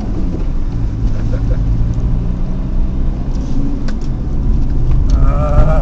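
Car engine pulling slowly up a short slope in first gear, a steady low hum with road rumble, heard from inside the cabin.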